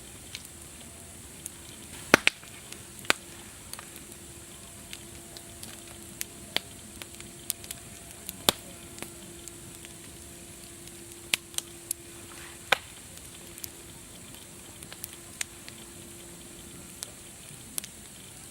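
Wood fire crackling: irregular sharp pops and snaps, a few of them loud, over a soft steady hiss.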